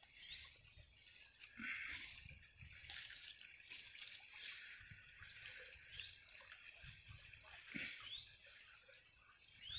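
Faint, steady rush of a river in spate after heavy rain, with scattered sharp ticks like drips and a few short rising chirps.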